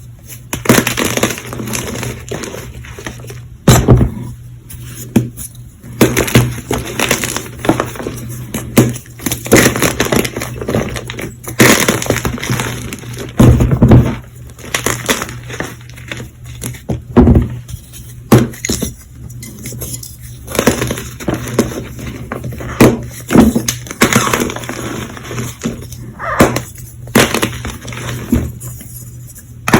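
Blocks of semi squeaky gym chalk being crunched and broken up close to the microphone, in a long irregular run of sharp crunches and snaps.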